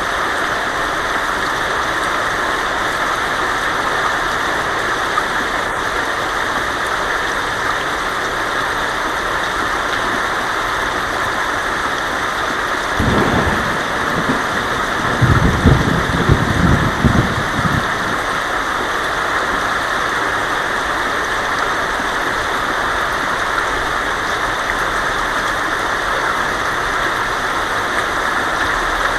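Heavy rain falling steadily on a tin roof, a constant hiss. About halfway through, a low roll of thunder rumbles for about five seconds, swelling and then fading.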